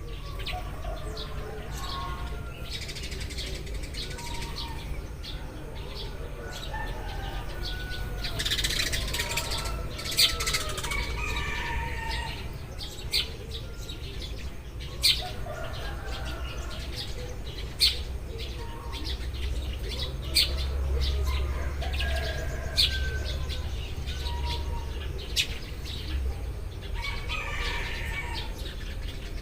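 A group of Eurasian tree sparrows chirping: many short, sharp chirps overlapping, with a few louder single chirps every couple of seconds, over a steady low hum.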